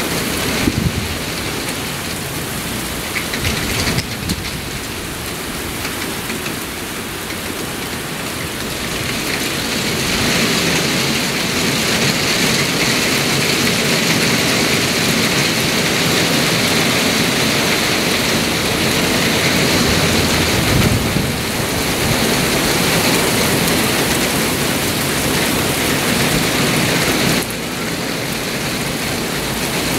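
Heavy rain pouring down in a thunderstorm squall, with gusts of wind. The downpour grows louder about a third of the way in, and there is a brief low rumble about two-thirds through. It eases a little near the end.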